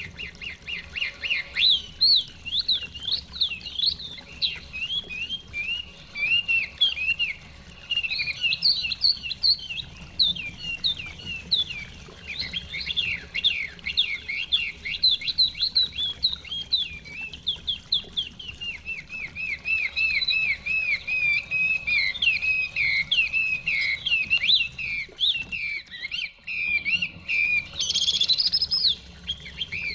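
Chinese hwamei singing a long, continuous song of rapid, varied whistled phrases that slide up and down, with a brief break near the end.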